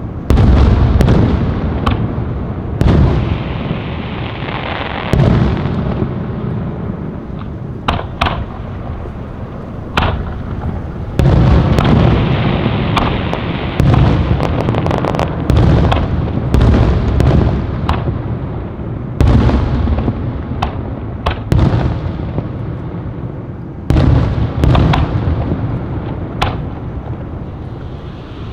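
Aerial fireworks bursting in rapid succession: deep booms every one to three seconds, each trailing off slowly, with sharp cracks in between.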